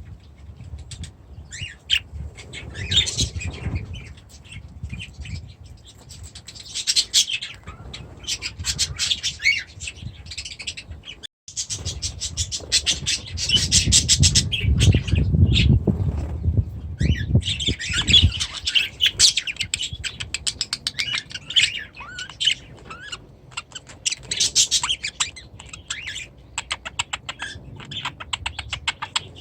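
Aviary birds chirping and squawking continuously, with many overlapping calls and runs of rapid short clicks. A low rumble sits under the calls for several seconds in the middle.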